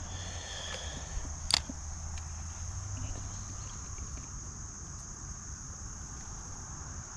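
Insects trilling steadily in a single high-pitched band, over a low rumble, with one sharp click about a second and a half in.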